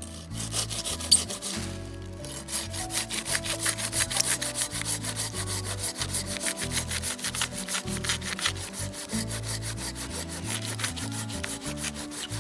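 Hand saw cutting through wood in rapid, even back-and-forth strokes that settle into a steady rhythm after about two seconds. Background music plays underneath.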